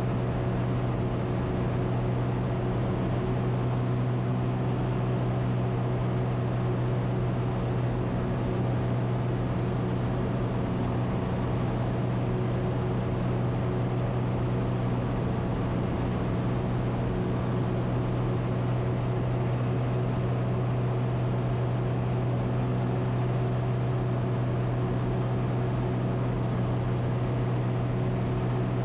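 Ikarus C42 light aircraft's engine and propeller droning steadily in flight, a constant low hum with a few steady higher tones and no change in pitch.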